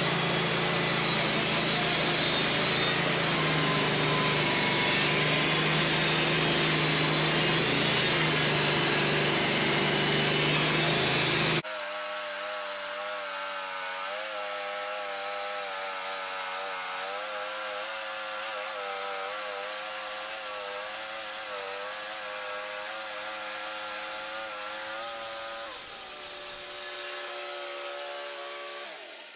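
Wood-Mizer LT15 band sawmill running, its blade sawing through a hard maple log. About twelve seconds in the sound switches abruptly to a quieter, steadier engine hum with a slightly wavering pitch, which fades down near the end.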